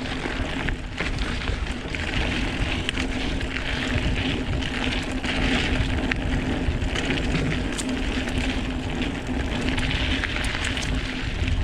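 Mountain bike being ridden down a dirt trail: a steady rushing noise of tyres and air, with scattered small rattles and knocks from the bike over the ground.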